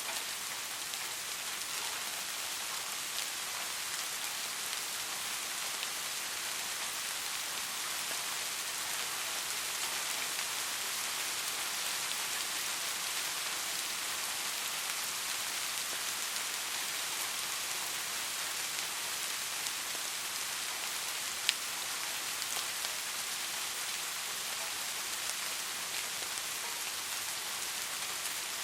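Steady rain falling on surfaces, a constant patter with individual drop ticks, one sharper tick about 21 seconds in.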